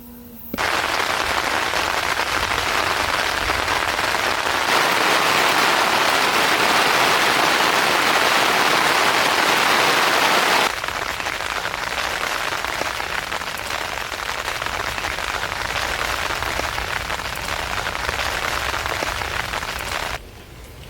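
Heavy rain pouring down in a dense, steady hiss. It starts suddenly, drops a step quieter about ten seconds in, and stops shortly before the end.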